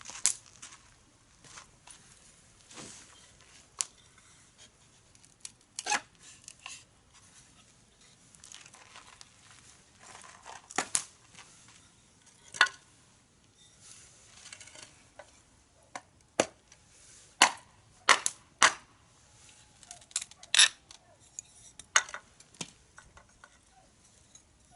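Wood fire crackling in a fire pit, with irregular sharp pops from the burning wood, several of them loud.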